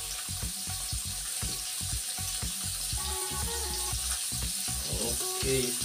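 Chicken gizzards and livers frying in hot oil in a wok: a steady sizzling hiss.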